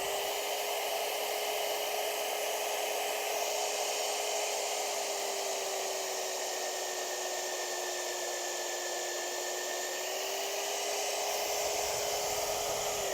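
Magnetic-base drill motor running steadily while cutting a hole in steel tubing with cutting oil, a steady whine that sags slightly in pitch under load partway through. Near the end it is switched off and spins down with a falling whine.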